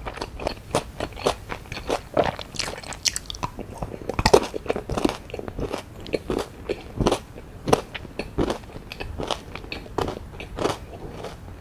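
Close-miked biting and chewing of a strawberry Milka chocolate bar, with many irregular crisp crunches and wet mouth sounds.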